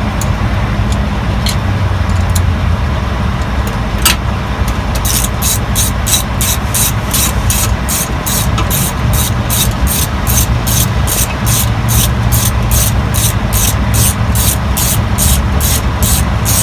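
Ratchet wrench turning a bolt in quick back-and-forth strokes: a run of short ratcheting clicks about two and a half a second, starting about five seconds in after a few single clicks. Under it runs a steady low vehicle rumble.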